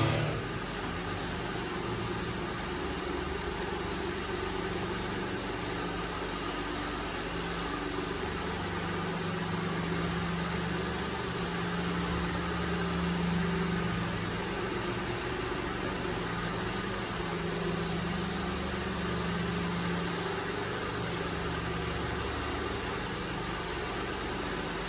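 2005 Mitsubishi Minicab kei truck's small three-cylinder engine idling steadily, with a slight waver in its hum.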